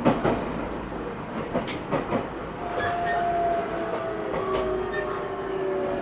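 Cabin running sound of an E127 series 0 electric train: the wheels knock over rail joints in the first two seconds, then from about three seconds in the traction motors' whine, several tones together, sinks slowly in pitch as the train slows under electric braking.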